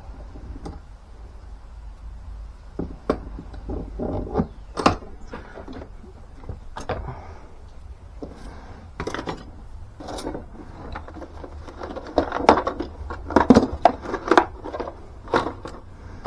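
Irregular clicks, knocks and short scrapes of hand work on a piece of ash wood, growing busier and louder in the second half, over a low steady hum.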